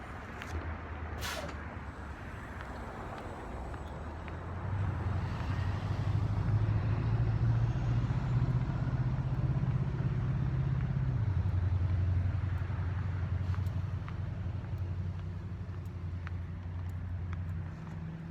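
Bus engine running and speeding up about four seconds in, then its pitch drops in a step near the middle as it shifts gear and it keeps pulling. A short hiss about a second in.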